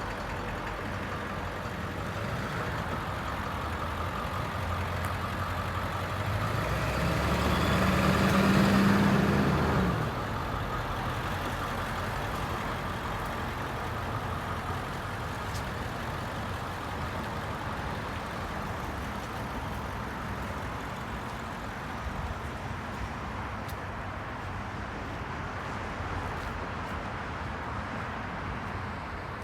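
International tow truck engine running steadily, revved up for a few seconds about a quarter of the way in and then dropping suddenly back to idle.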